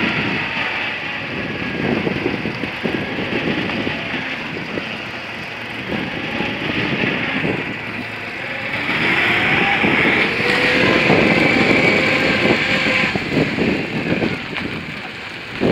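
Citroën 2CV air-cooled flat-twin engine running as the car drives slowly, with the sound getting louder for a few seconds from about nine seconds in.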